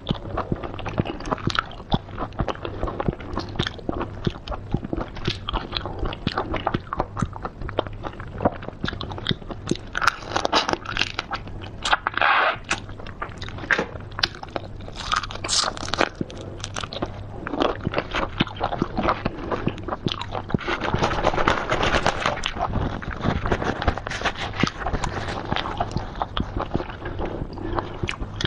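A person eating seafood, biting and chewing with a dense run of crunchy clicks, louder in a few stretches.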